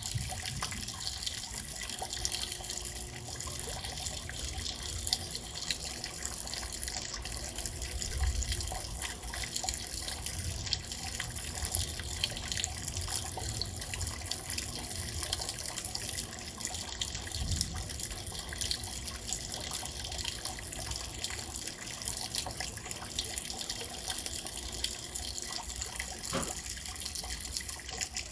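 Steady rain falling, an even hiss with many small drip ticks scattered through it.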